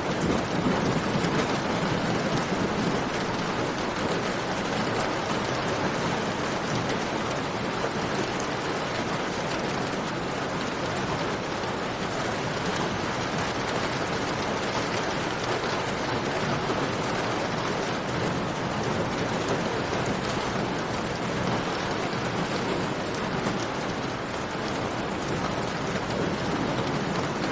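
Steady rain, a dense even hiss with a low rumble beneath, mixed with faint ticks of a campfire crackling.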